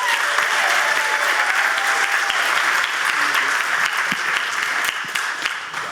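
Theater audience applauding.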